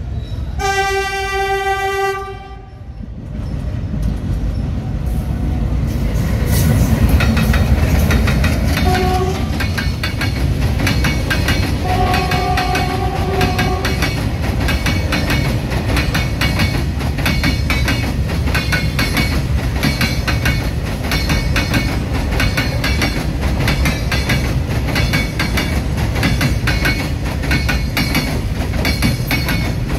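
Freight train hauled by an Indian Railways diesel locomotive passing close by. The locomotive's horn sounds a long blast, then a short one and another of about two seconds. The loaded wagons then rumble past with a steady clickety-clack of wheels over the rail joints.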